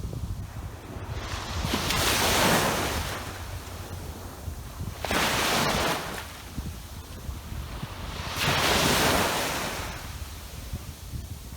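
Ocean waves breaking on a sandy beach, three washes of surf swelling and fading over a steady low rumble, with some wind noise on the microphone.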